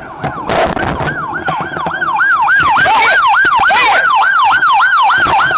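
Emergency vehicle siren in fast yelp mode, its pitch sweeping rapidly up and down about three times a second, starting about a second in and loud.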